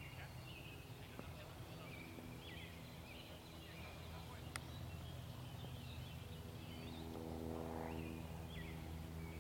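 Birds chirping in short repeated calls over a faint steady low hum, with a single sharp click about four and a half seconds in.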